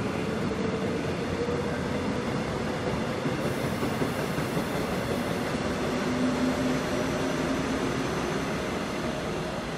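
Korail commuter electric train running past a station platform: steady rumble of wheels on rail with a faint hum that drifts slightly in pitch, easing off a little near the end.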